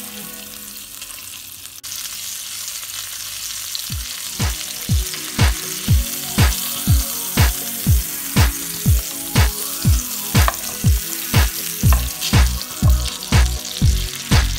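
Smoked duck breast sizzling as it pan-fries in oil in a non-stick wok. From about four seconds in, background music with a steady beat of about two thumps a second joins the sizzle.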